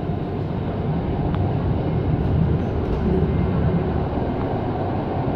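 Passenger train running, heard from inside the carriage: a steady low noise of wheels on the rails, with a couple of faint clicks.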